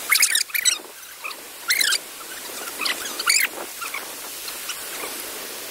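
Birds calling in bursts of quick, high, warbling chirps, a second or so apart, over a steady background hiss.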